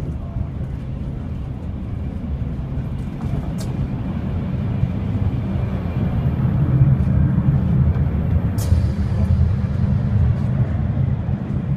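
Inside a moving passenger train: a steady low rumble from the running gear, growing louder through the middle as the connecting section between carriages is passed. Two sharp clicks come about four seconds in and again about nine seconds in.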